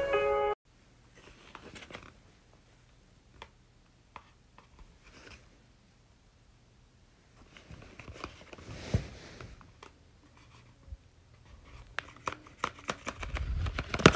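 A music clip cuts off half a second in; then faint, scattered rustles and small clicks of a paper dragon puppet being handled on a gloved hand, busiest around eight to ten seconds in.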